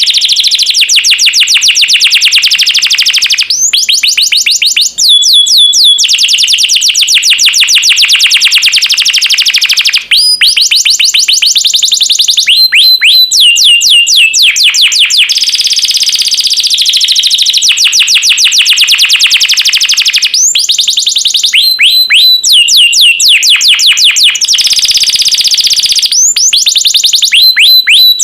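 Domestic canary singing without a break in long, rapid trills of evenly repeated notes, mixed with runs of quick downward-sweeping notes; loud and close.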